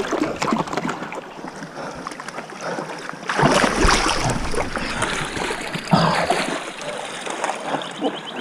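River water splashing and churning around people wading and pushing a boat against the current, with a louder stretch of splashing a little over three seconds in and another brief surge around six seconds.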